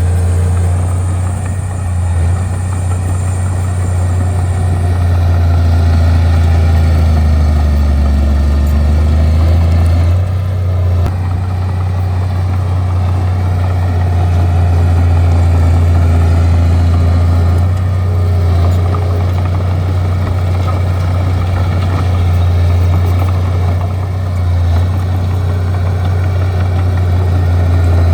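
Bulldozer's diesel engine running steadily, a deep drone with small rises and dips in level.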